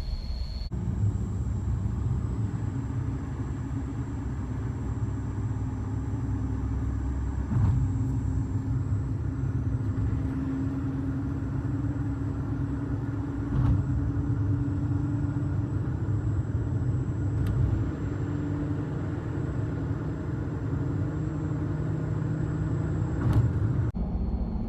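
A car climbing a mountain road, heard from inside the cabin: a steady low rumble of engine and road noise, with an engine hum that drifts gently up and down and a few light knocks.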